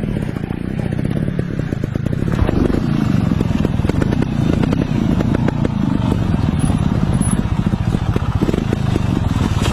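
Motorcycle engine running while riding, a steady low rumble with frequent clatter and knocks, getting louder about two and a half seconds in.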